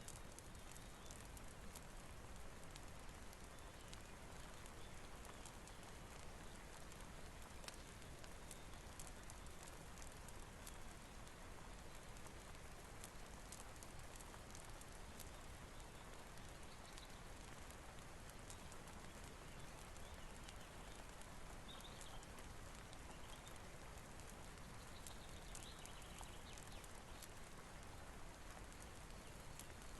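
Steady rain mixed with a fireplace: an even hiss of rainfall with scattered small sharp ticks of raindrops and fire crackle throughout.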